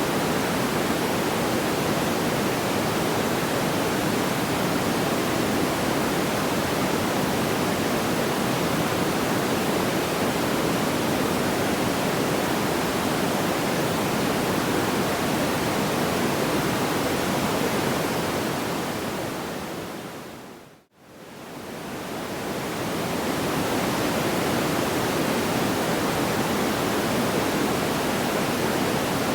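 Steady, even rushing noise from a sleep-sound ambience track, with no distinct crackles or pops. About two-thirds through it fades to near silence and fades back up, where the recording loops.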